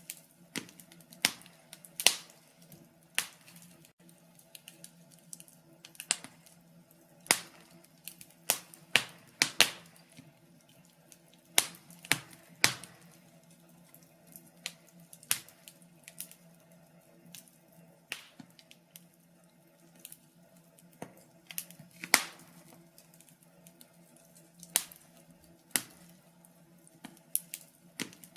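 Wood fire in a fireplace crackling, with irregular sharp pops about once a second, some louder than others, over a faint steady hum.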